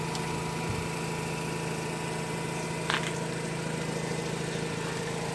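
Mazda RX-8's Renesis two-rotor rotary engine idling steadily, heard with the hood open. A brief click sounds about three seconds in.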